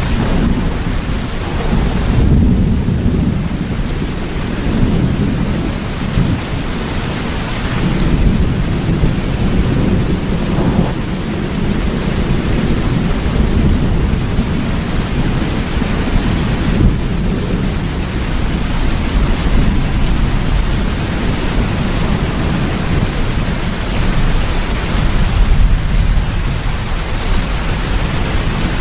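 Steady rain with low thunder rumbling under it, swelling a few times.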